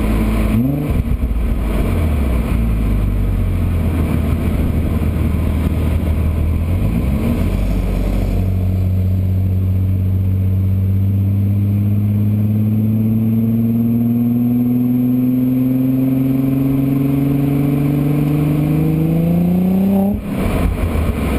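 Audi S4 engine and exhaust under acceleration as the car approaches. The engine note rises, drops back at a gear change about seven seconds in, then climbs slowly and steadily in pitch for about twelve seconds before cutting off sharply near the end.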